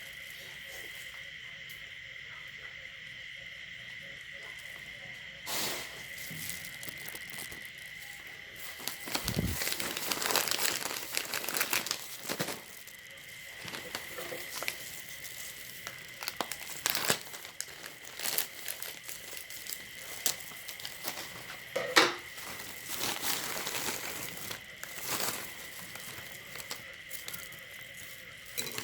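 Crinkling and crackling of a plastic snack wrapper being handled, in irregular bursts from about five seconds in, over a steady high-pitched whine.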